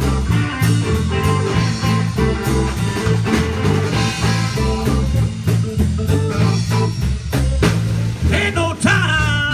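Blues band playing an instrumental passage: guitar over a steady, repeating bass and drum groove. Near the end a wavering high line with vibrato comes in.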